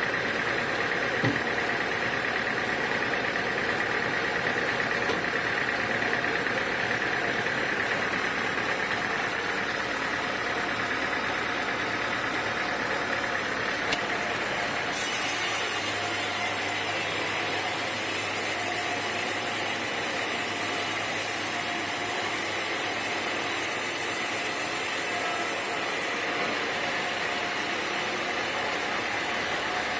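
Sawmill machinery running steadily, a motor hum with a faint high whine. About halfway, a high hiss and a low hum join for roughly ten seconds, then stop.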